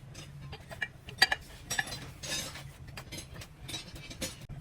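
Light metallic clinks and taps of tools and metal parts being handled, scattered and irregular, the sharpest about a second in, over a steady low hum.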